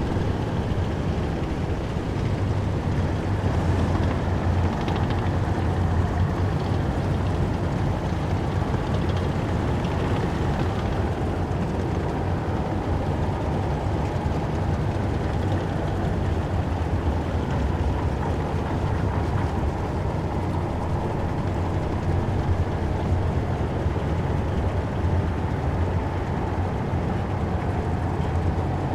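Column of heavy military vehicles with diesel engines, moving in procession, giving a steady, loud, deep engine rumble with no breaks.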